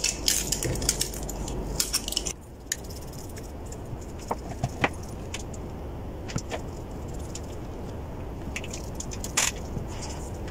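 Small clicks and light metallic rattles of parts, leads and tools being handled on a repair bench, dense for about the first two seconds, then a few scattered ticks over a steady low hum.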